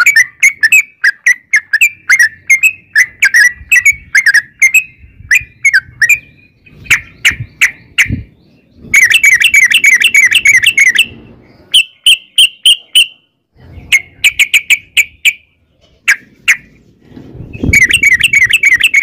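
Yellow-vented bulbul (trucukan) singing a long, rapid run of chirping notes, delivered in bursts separated by short pauses.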